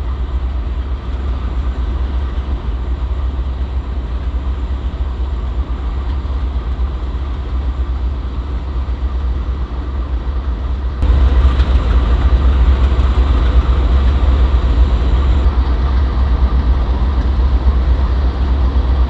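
Diesel locomotive engine running close by, a steady low rumble with a broad mechanical din; it gets noticeably louder suddenly about eleven seconds in.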